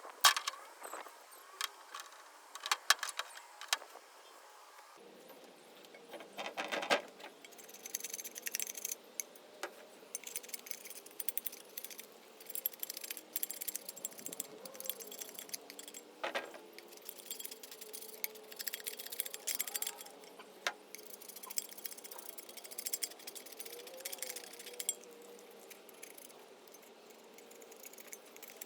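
Small metal parts clinking and rattling, with many sharp clicks and knocks at irregular intervals.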